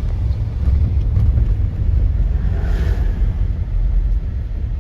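Steady low rumble of a motor vehicle in motion, with a brief brighter swell about two and a half seconds in.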